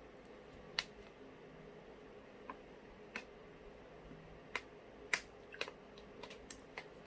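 Close-up eating sounds of someone chewing mussels: a dozen or so short, sharp wet clicks and smacks at irregular intervals, closer together near the end.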